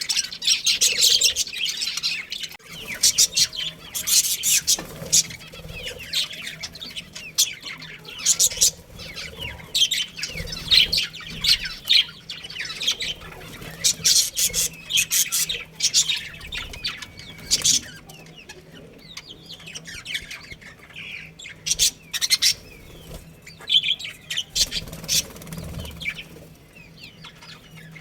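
A group of budgerigars chirping and chattering in quick, overlapping bursts of high calls, busiest in the first half and thinning out in short quieter spells later on.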